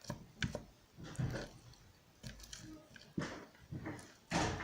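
Hands working sticky clear-glue slime and pressing Orbeez water beads into it: a string of irregular squishy, sticky smacks and crackles, the loudest near the end.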